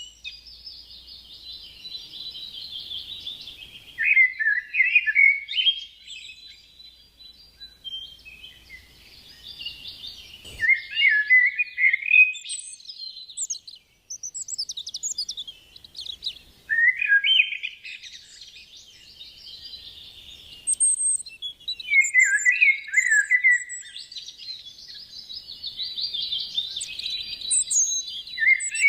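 Birds chirping and calling continuously, with louder bursts of rapid chattering phrases every five or six seconds over a steady background of higher chirps.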